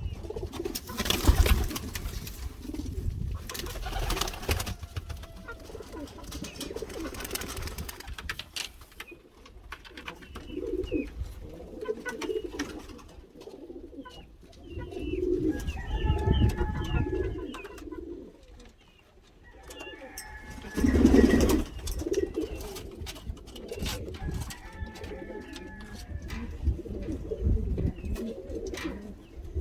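Domestic pigeons cooing over and over, low humming coos that swell and fade. Rustling and a few knocks in the first third.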